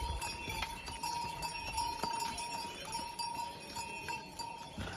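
Bells on mules jingling and ringing, a steady bell tone that swells and fades over a scatter of fainter jingles and clicks.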